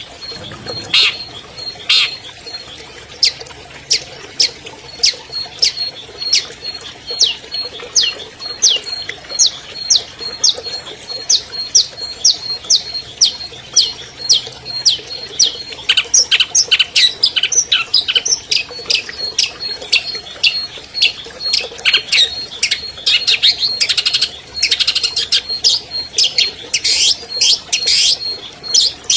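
Long-tailed shrike (cendet) singing: a long run of quick, sharp, downward-sweeping high notes, a few a second, turning into denser, harsher chattering in the second half.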